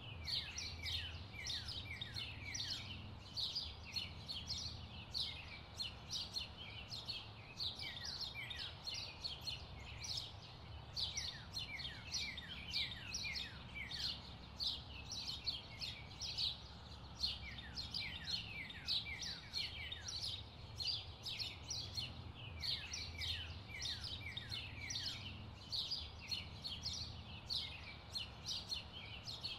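Birds chirping continuously: many short falling chirps in quick succession, over a faint low steady hum.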